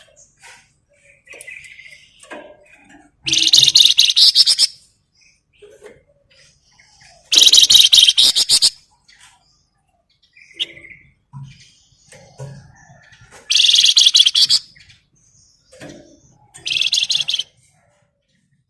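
Flamboyan songbird singing: four loud, rapid rattling trills of about a second and a half each, with faint chirps between them.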